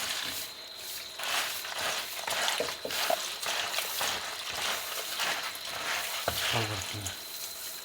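Food sizzling in a frying pan, with the clicks and scrapes of stirring.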